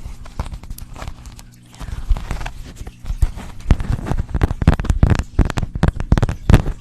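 Quick, irregular tapping and clicking close to the microphone, getting denser and louder about halfway through.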